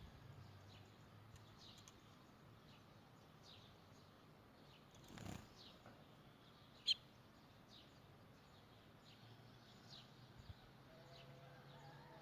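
Canary giving scattered faint chirps rather than full song, with one sharper, louder chirp about seven seconds in. A soft brief rustle a little after five seconds.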